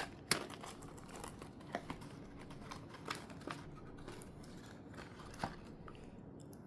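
Faint crinkling and rustling of firecracker packaging being handled, with a few sharp crackles scattered through it. The loudest comes just after the start.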